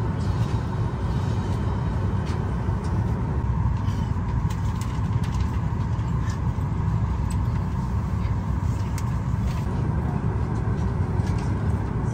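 Steady low rumble of a Boeing 737-900ER airliner cabin, with a few faint clicks.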